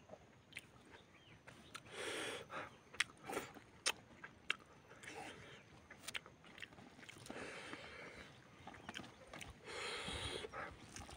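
Close-up eating sounds of a man eating chicken and rice by hand: wet chewing, with many short sharp mouth clicks and smacks and three longer breathy sounds, about two, seven and ten seconds in.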